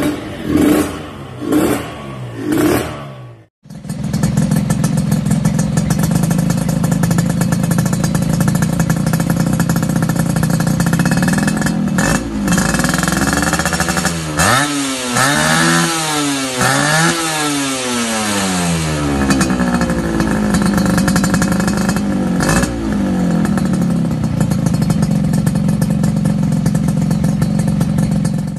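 Two-stroke underbone motorcycle with a TNX racing exhaust being revved. There are a few quick throttle blips at the start, then the engine is held at high revs, with the revs dipping and climbing several times around the middle. The sound cuts out abruptly for a moment early on.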